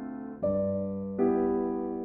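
Slow, gentle solo piano music: a chord struck about half a second in and another just past one second, each left to ring and fade.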